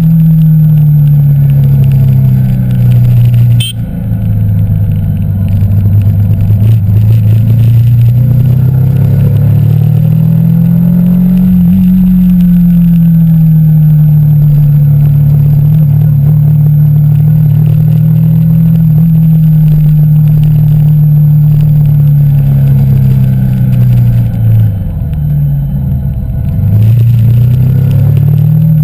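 Yamaha YZF-R15 V2.0's single-cylinder 150 cc engine running under way, its note rising and falling with the throttle. There is a brief drop a few seconds in, a climb to a steady cruising note, and a deeper dip and pick-up near the end.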